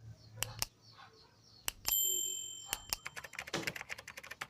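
Light metal clicks and taps from a steel clipper blade being handled and worked during sharpening. About two seconds in there is one clink that rings briefly, and near the end a quick run of small clicks.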